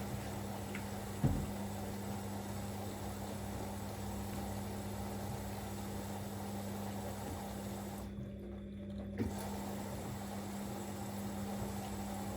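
Siemens Extraklasse XLS 140 A washing machine early in its prewash, water running in under a steady hum. A thump comes about a second in and another near nine seconds.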